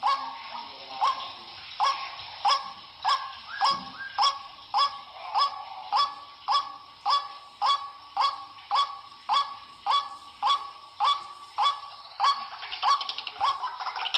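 White-breasted waterhen (ruak-ruak) calling: a harsh note repeated evenly about one and a half times a second.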